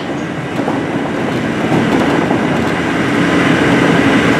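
Inside a moving ex-JR 203 series electric commuter train: a steady running rumble of the car on the track with a steady hum, growing gradually louder.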